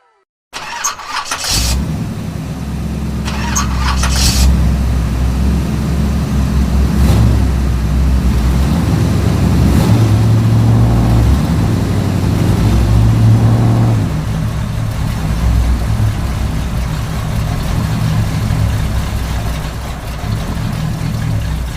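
Mini tractor engine running steadily, with a few sharp clattering knocks in the first few seconds; the engine note shifts around the middle.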